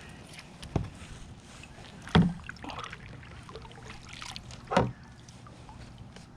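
Knocks and bumps on a kayak, three sharp ones spread over a few seconds, with light handling noise between them over a steady low background.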